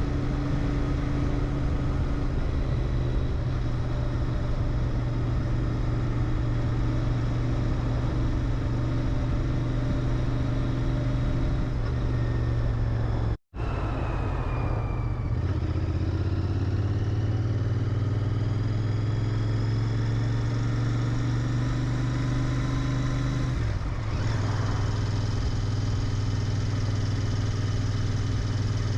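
Royal Enfield Interceptor 650's parallel-twin engine running through its stock muffler while the bike is ridden at a steady pace. The sound breaks off for an instant about halfway through. The engine note then settles at a different pitch and shifts again about 24 seconds in.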